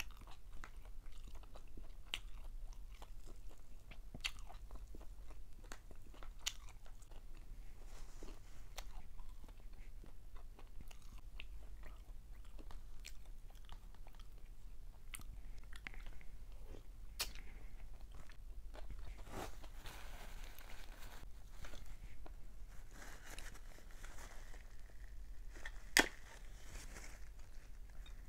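A person chewing and biting fried fish, with small crunches and mouth clicks scattered throughout. There is one sharper click near the end.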